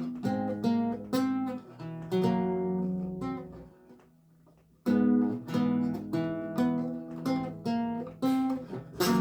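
Solo lute music: plucked single notes and chords that die away into a short pause about halfway through, then start again with a firm plucked chord.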